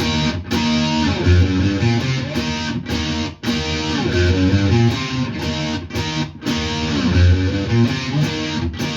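Electric guitar playing a classic-rock riff of power chords and single-note runs, in several phrases with short breaks between them.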